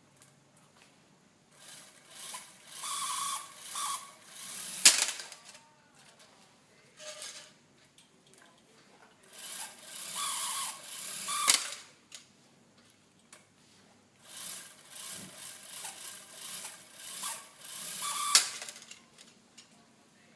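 Mechanism of a helicopter rotor model rattling in three bouts of a few seconds each, every bout ending in a sharp click.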